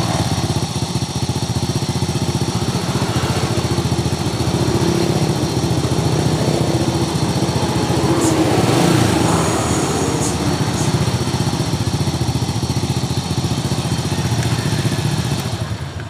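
2001 Honda Supra X's single-cylinder four-stroke engine running with a rough, rattling 'kemrasak' noise from around the cylinder head. It rises slightly about halfway through. The mechanic suspects the cam chain, its tensioner roller or the valve clearance.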